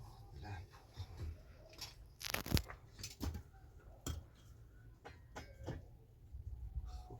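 Scattered knocks and clunks, several in a row, the loudest about two and a half seconds in, over a low rumble.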